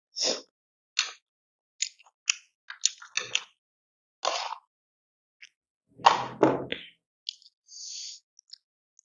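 Close-miked eating sounds: a string of short, separate bites, chews and mouth smacks while eating, with the loudest, fullest crunch about six seconds in.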